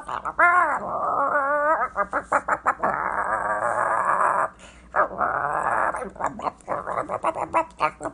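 Animal vocal sound effects: a few short rising-and-falling calls, then rough, growl-like stretches, and finally a quick run of short clucking-like pulses.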